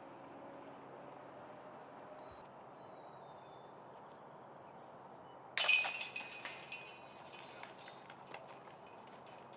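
Disc golf disc hitting the chains of a basket about halfway through: a sudden metallic crash and jingle that rattles and fades over about a second and a half. Before it there is only a faint steady outdoor background.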